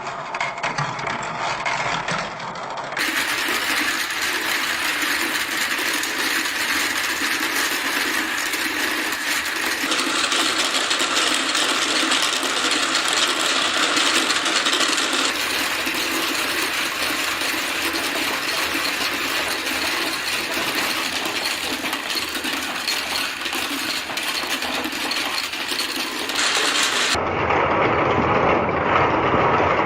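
Many balls rolling and clattering down a twisting plastic marble-run track, a continuous dense rattle of small clicks. Its character changes abruptly about three seconds in and again near the end.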